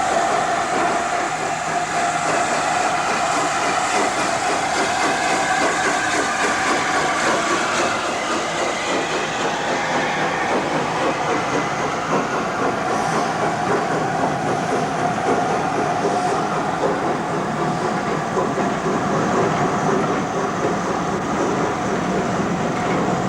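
LNER A4 Pacific steam locomotive Sir Nigel Gresley hauling an excursion train, with the steady running noise of the train on the rails.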